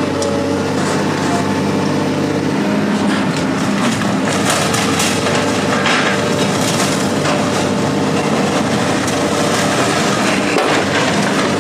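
An engine running steadily, with irregular metal clanks and scraping over it, heaviest midway through.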